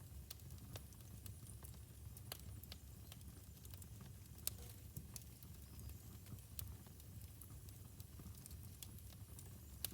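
Wood fire burning in a fireplace: irregular crackles and pops over a low steady rumble, with a sharper pop about halfway through and another near the end.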